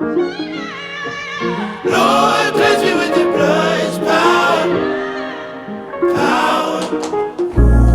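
Gospel-style choir of layered voices singing a sustained, wordless melody, with a deep bass coming in near the end.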